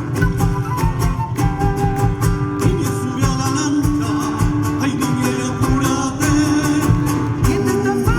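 Chilote folk music with strummed guitar keeping a steady beat under a held melody.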